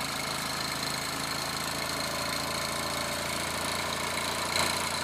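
Mamod TE1A model steam tractor's small steam engine running steadily under its own steam, a fast, even beat.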